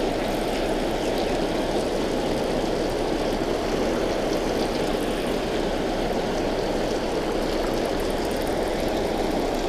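Steady rush of water pouring over a spillway, an even, unbroken noise.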